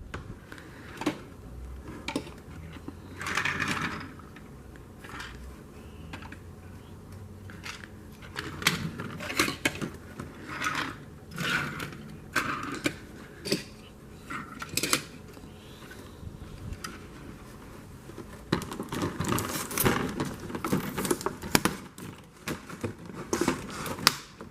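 Hands handling small plastic toy pieces, with irregular clicks, taps and rustling and busier clusters of clatter at a few points.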